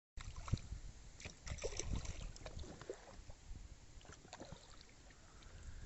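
Kayak paddling on a river: water splashing and dripping off the paddle, with irregular light knocks and a low rumble.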